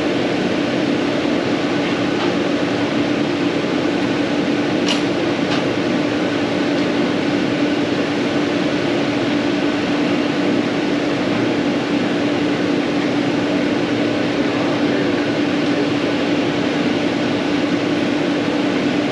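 Steady mechanical hum with a constant low tone, and one brief sharp click about five seconds in.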